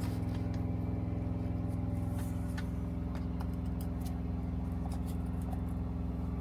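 A parked semi-truck's diesel engine idling steadily, heard from inside the cab as a low, even drone. Scattered light clicks and knocks sound over it.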